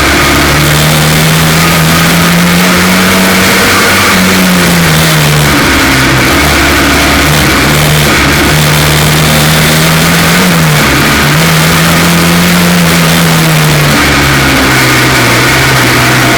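F2 stock car engine racing under load, its note rising and falling every few seconds as the throttle comes on and off, very loud and close. The engine is running on a misfire caused by a cracked spark plug.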